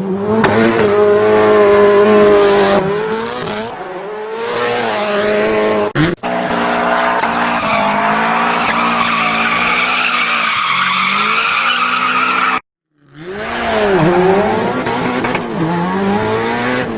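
Pet animals' drawn-out pitched cries, held and wavering, in three clips cut together. Near the end they come as rising-and-falling wails about once a second.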